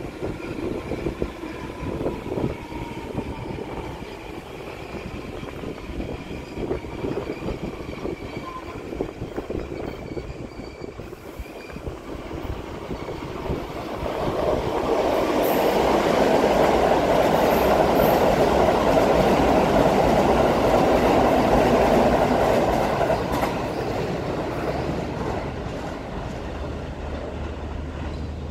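Osaka Metro 400 series six-car electric train running past, wheels rolling on the rails, with a faint motor whine falling in pitch at first. It grows loudest as it passes close, about halfway through, then eases off near the end.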